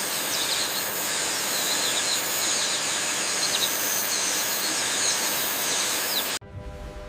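A steady hiss with short bird chirps over it, cutting off suddenly about six seconds in.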